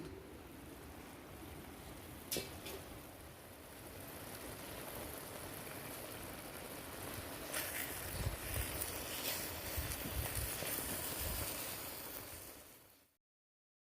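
Outdoor ambience: a steady rushing noise with a single click early on. In the second half it grows louder with irregular low buffeting, like wind on the microphone, then cuts off abruptly near the end.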